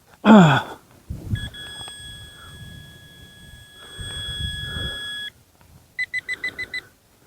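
Metal detector's electronic target tone held steady for about four seconds over rustling and scraping in the soil, then a quick run of about eight short beeps near the end. A short falling grunt opens it.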